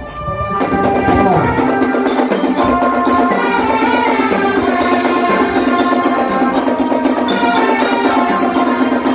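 Drum band playing: a melody on bell lyras over a steady percussion beat. The music comes in about half a second in, after a brief dip.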